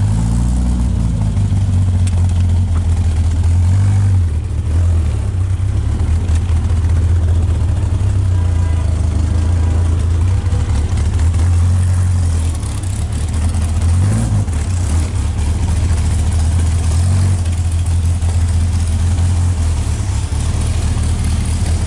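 A 1951 Morgan Plus 4's four-cylinder engine running at low revs from the driver's seat while the car is manoeuvred at walking pace. It gives a brief rise in revs about a second in and again around the middle.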